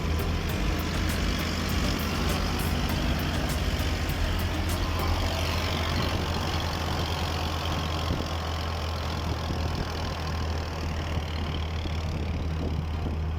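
Motor vehicle engine running steadily with a low drone, with rapid light ticking over it for the first few seconds.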